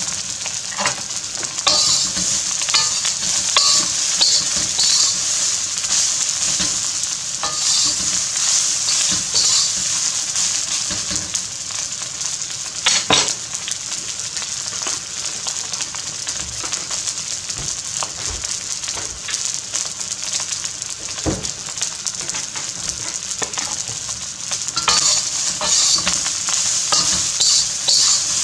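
Fried rice sizzling steadily in a wok over a gas burner. A metal spatula stirs and scrapes it against the wok in clattering spells in the first few seconds and again near the end.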